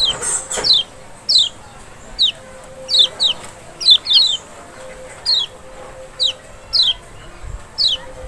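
Kecial, the Lombok white-eye (Zosterops chloris), calling in a string of short, high notes, each sliding downward, about one or two a second and sometimes in quick pairs. It is a lure call of the kind played to provoke kept white-eyes into singing.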